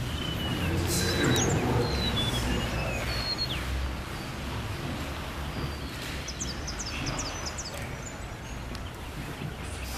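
Birds calling: a few clear whistled notes that fall in pitch during the first few seconds, then a quick run of short high chirps a little past halfway, over a steady low hum.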